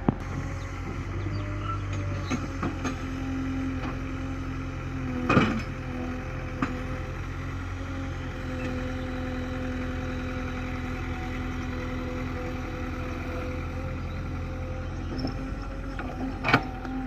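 Tractor engine running steadily at a low, even speed, with a sharp knock about five seconds in and two more near the end.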